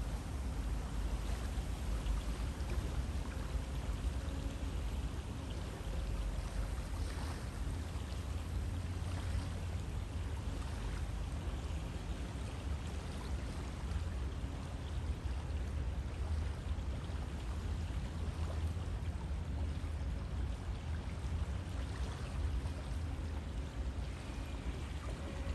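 River water flowing steadily, a continuous rush with a deep rumble and small splashes and gurgles running through it.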